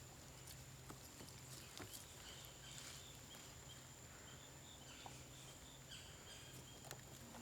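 Near silence: faint outdoor background noise with a few soft clicks.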